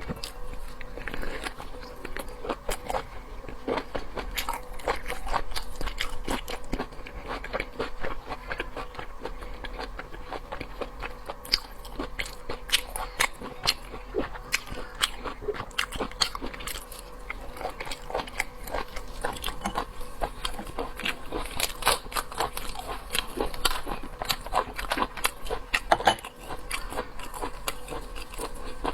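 A person eating seafood with the mouth: continuous chewing and biting, with dense, irregular wet clicks and crunches.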